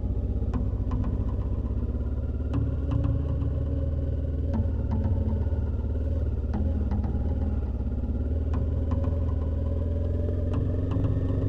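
An engine running steadily, with a scattering of sharp clicks over it.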